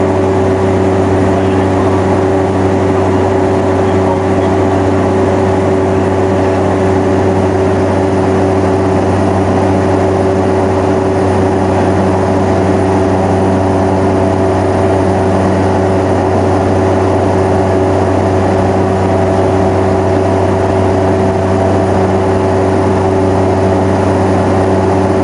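Cessna 208B Grand Caravan's Pratt & Whitney Canada PT6A turboprop and propeller running steadily in flight, heard inside the cabin as a loud, unchanging drone with a deep propeller hum.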